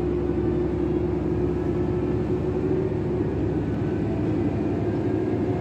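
Akechi Railway diesel railcar running, a steady engine drone with a low rumble.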